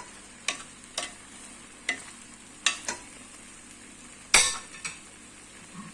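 Plov sizzling in the pot as a spoon stirs the rice, knocking and scraping against the pot about seven times over a steady hiss, the loudest knock a little past four seconds in.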